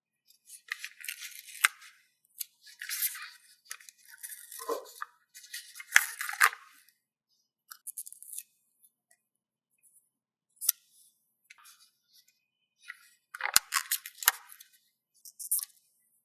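Paper stickers being handled: crinkly rustling as they are peeled and rubbed down, in short bursts with a few sharp taps and brief pauses between.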